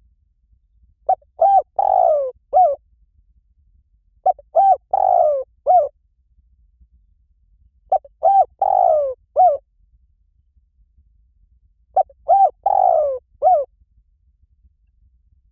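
Spotted dove cooing: four phrases about every three and a half to four seconds. Each phrase has two short notes, a longer falling note and a short final note.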